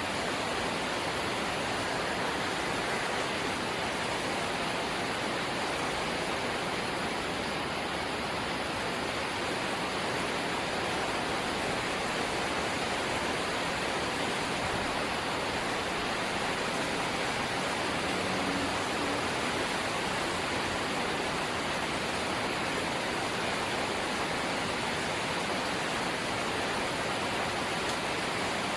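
Light rain falling steadily, an even hiss that never breaks or changes.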